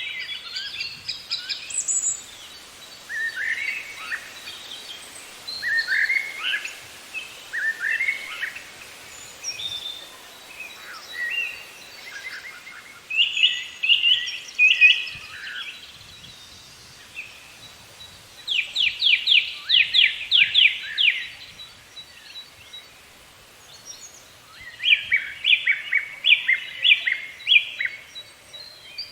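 Wild birds singing and calling: a mix of short chirps and whistled phrases, with quick trills of rapidly repeated notes in the middle and again near the end.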